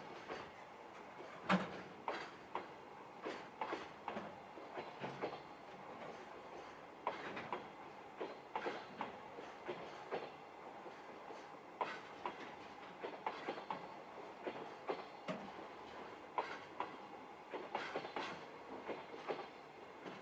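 Freight train's container wagons rolling past at low speed, their wheels clicking irregularly over rail joints above a steady rumble.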